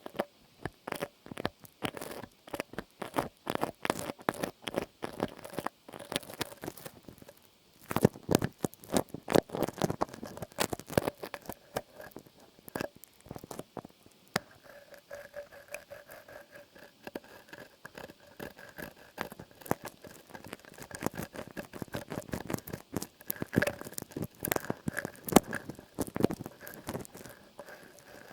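Close-miked ASMR trigger sounds: rapid, irregular light tapping and scratching clicks, with quieter patches around six and fourteen seconds in.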